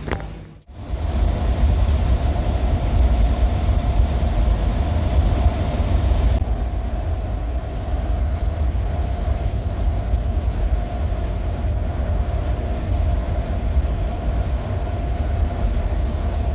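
Loud, steady low rumble with a constant hum, the running noise of a moving vehicle heard from inside. It starts after a brief break about half a second in.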